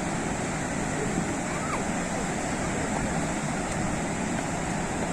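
Sea surf washing steadily onto the shore, an even rushing noise with no single wave crash standing out.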